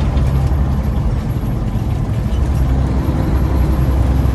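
Diesel engine of a loaded big rig droning steadily under way, heard from inside the cab with road noise.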